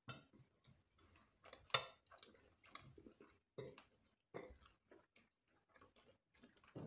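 Faint, close-up mouth sounds of people chewing fried chicken: soft wet smacks and small clicks at an uneven pace, with one sharper click a little under two seconds in.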